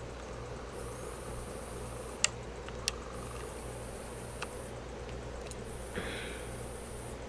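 Ceiling fan running with a low steady hum, under a faint high whine that cuts in and out about every two seconds. A few sharp clicks come in the middle, and there is a short rustle near the end.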